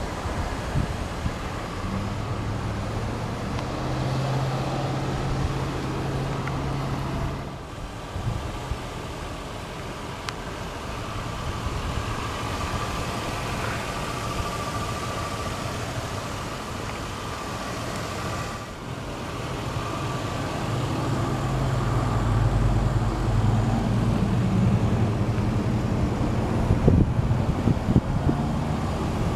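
2001 Lexus GS300's 3.0-litre inline-six idling steadily, heard from outside the car, with traffic and wind noise; a louder low rumble builds over the last several seconds.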